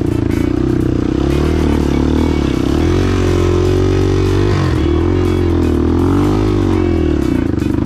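Dirt bike engine running under hard enduro riding, its pitch rising and falling again and again as the throttle is worked, with a brief drop about halfway through.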